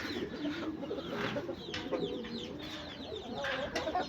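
Mixed bird sounds from a backyard collection: pigeons cooing low, with many quick high chirps from small birds over it and a faint clucking of chickens.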